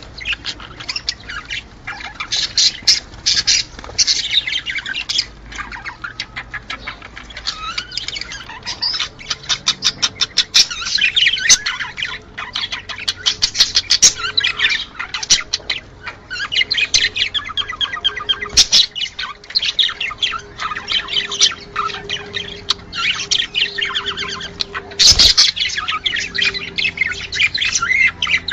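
Budgerigars chattering and warbling in a dense, continuous stream of rapid chirps and squawks, the breeding-season chatter of budgie pairs. Two sharp knocks cut through, one past the middle and one near the end.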